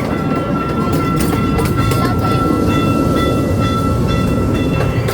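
Rumble and clatter of a train heard from on board while it rolls steadily, with a thin high whine held over it and occasional light clicks.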